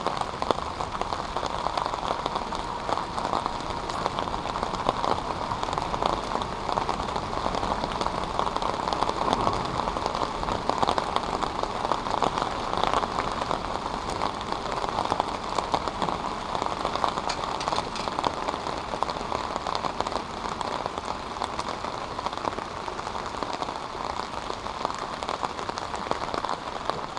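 Steady rain falling, a dense patter of drops on the water and close around.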